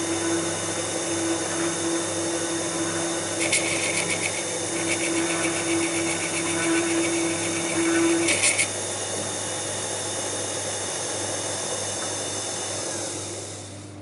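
HMT CNC T70 lathe running, with a tool cutting the spinning wood workpiece in a fine rapid rattle from about three and a half to eight and a half seconds in. A steady motor whine stops about eight seconds in, and the machine's running noise dies away near the end.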